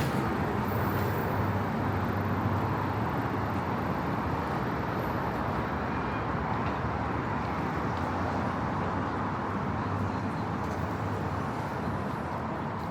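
Steady city street ambience of road traffic, an even hum of passing cars that eases off slightly toward the end.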